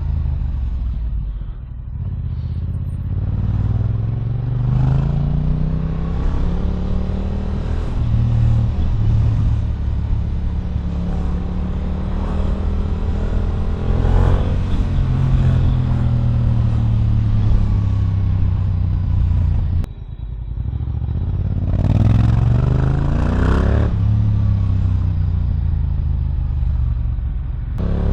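Yamaha R7's parallel-twin engine through an Akrapovič exhaust, pulling hard in repeated bursts of acceleration: the pitch climbs, drops at each gear change and climbs again. Near the end the throttle briefly closes and the engine revs up quickly through several short shifts.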